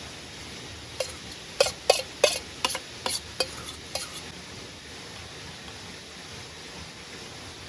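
A utensil clinking and scraping against a metal pot or mess tin, about ten quick knocks over some three seconds, each with a short ring, over a steady hiss.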